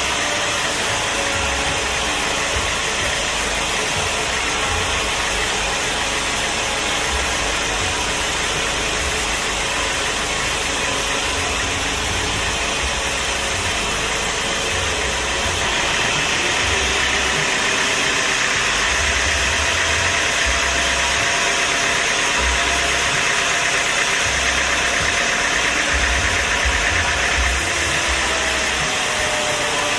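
An engine or machine running steadily, a constant drone with a broad hiss.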